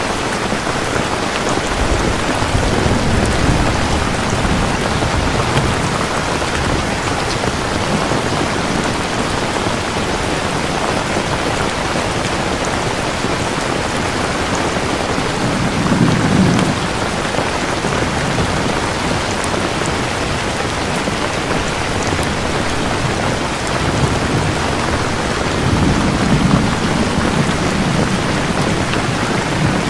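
Steady heavy rain with rolls of thunder: low rumbles swell a few seconds in, again about halfway through, and once more near the end.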